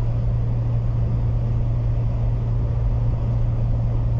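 Steady low drone and rumble of a running vehicle, even and unchanging throughout.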